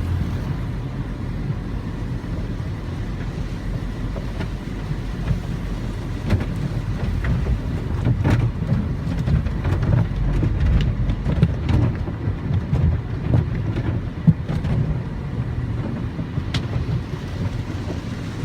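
Automatic tunnel car wash machinery heard from inside a car riding the conveyor: a steady low rumble with irregular clicks and knocks, busier in the second half, including one sharp knock late on.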